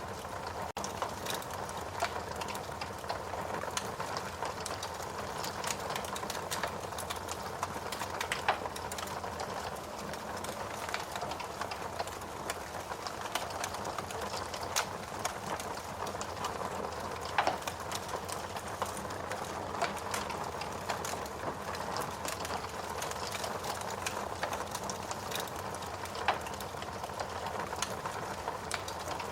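Fireplace fire burning: a steady crackling hiss with many small sharp pops and a few louder ones spread through.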